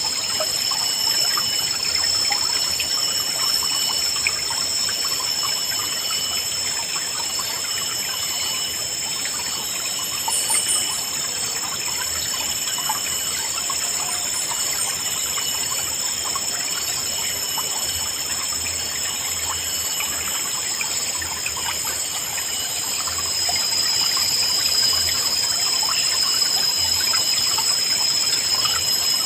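A shallow river babbling and trickling steadily. Above it runs a steady, high-pitched calling with regularly repeating notes, and short bird chirps come about ten and fifteen seconds in.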